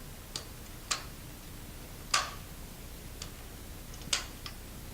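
About six short, sharp clicks at uneven intervals, the loudest about two seconds in and about four seconds in: a four-part kayak paddle's shaft sections being handled and locked together.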